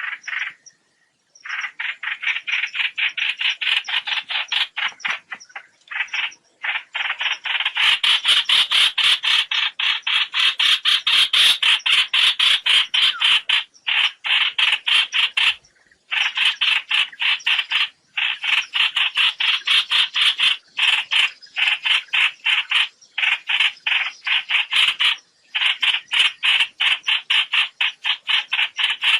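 Trao trảo birds' flock-gathering call as a recorded net-trapping lure: a loud, rapid chattering run of short repeated calls, broken by a few brief pauses.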